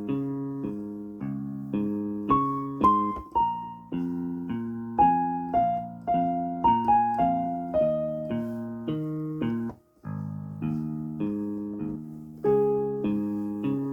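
Yamaha PSR-E373 portable keyboard playing a slow melody on its Concert Grand Piano voice over repeated lower chords, with the keyboard split so the lower part sounds on its '60s Clean' voice. The sound cuts out for a moment about ten seconds in.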